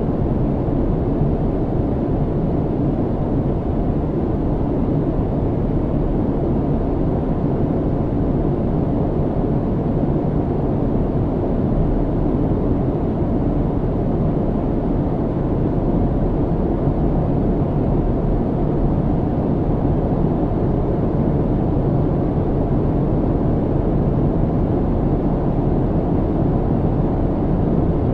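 Airliner cabin noise in cruise: a steady, deep rumble of engine and airflow with no changes.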